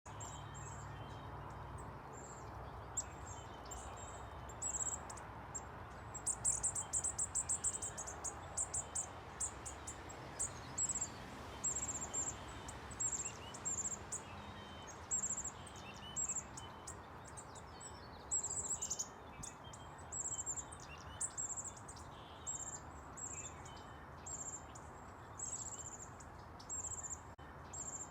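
Small birds calling with many short, high-pitched chirps, including a quick burst of rapid notes about six seconds in, over a steady background hiss.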